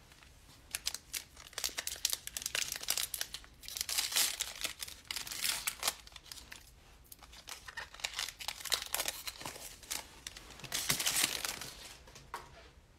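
Cellophane wrapping on trading card packaging being torn open and crinkled in the hands, a crackly rustle in stretches, loudest twice.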